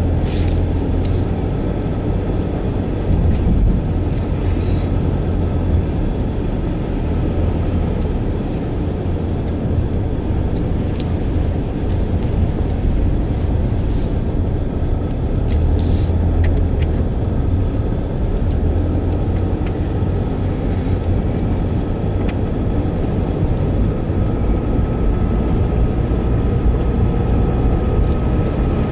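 Steady low rumble of a car driving, continuous throughout, with a few faint clicks.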